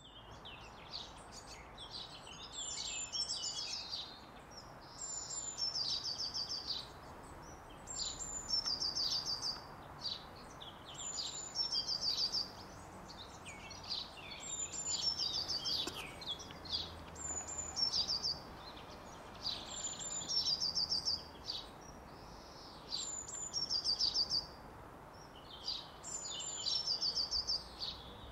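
A songbird singing a short, high-pitched phrase over and over, one every two to three seconds, over a steady background hiss.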